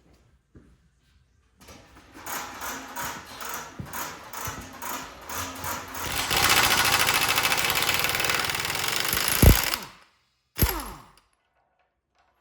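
Power tool, most likely an impact wrench, backing out the bolt that secures a skid steer's tapered pivot pin: choppy short runs at first, then running steadily for about three and a half seconds. Two knocks follow near the end.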